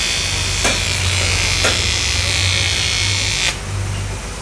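A handheld power tool running with a steady buzzing hiss, cutting off suddenly about three and a half seconds in.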